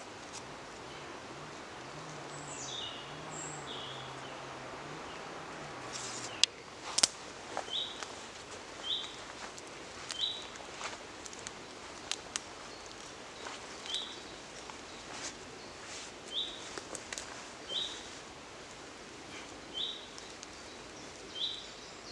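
A small songbird repeating a short, high chirp every second or so over outdoor background noise, with a few sharp clicks or cracks about six to seven seconds in. A low wavering hum runs under the first six seconds and stops suddenly.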